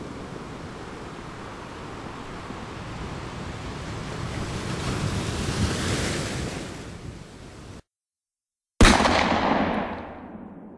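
Edited-in sound effects: a rushing noise swells and fades over about eight seconds. After a second of dead silence, a sudden loud boom hits and dies away over about two seconds.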